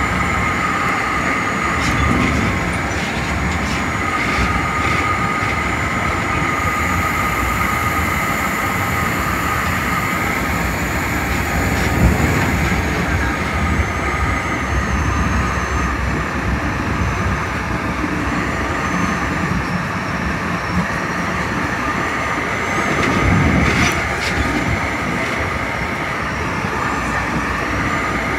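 Metra commuter train heard from its cab car while running along the line: a steady rumble of wheels on the rails with a couple of steady high tones over it and a few sharp clicks.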